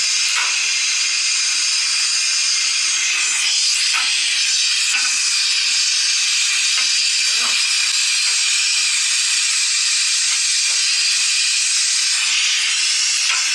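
Steady loud hissing noise with a few faint knocks.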